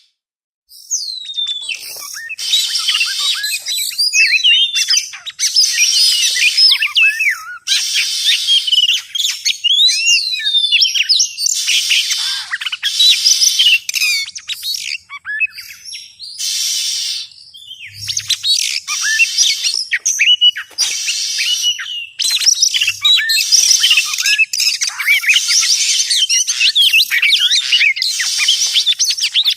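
Oriental magpie-robin (kacer) singing a fast, varied run of gliding whistles and chirps mixed with harsh scratchy notes, in phrases with short breaks. This is a kacer lure (pikat) song.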